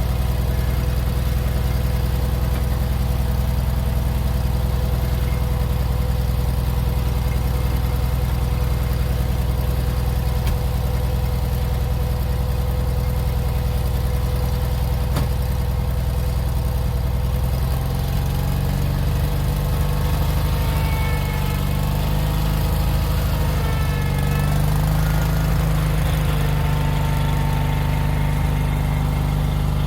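Tractor engine running steadily, its note shifting to a different speed about halfway through.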